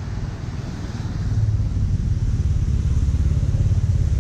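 Low engine rumble close by, growing louder about a second in and holding there.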